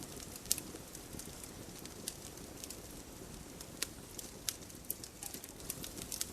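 Campfire burning: irregular sharp crackles and pops over a steady low rumble of flames.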